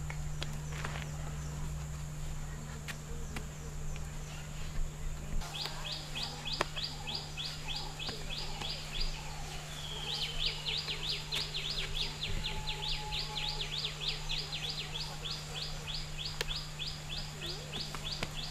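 A bird calling outdoors in a rapid run of short, high chirps, about five a second, starting about five seconds in, pausing briefly, then running on. A steady low hum lies underneath.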